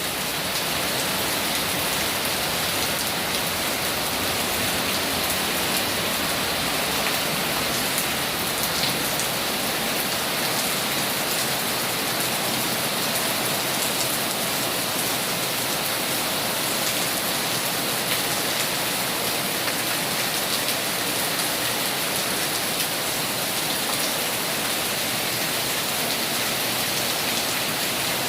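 Heavy rain falling steadily, a dense even hiss with many small drop ticks on nearby surfaces.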